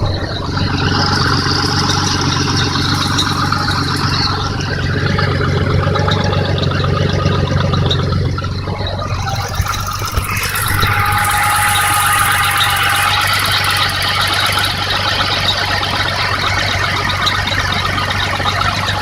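BMW M30B35 straight-six engine running at a steady idle. About halfway through a steady high whine comes in over it.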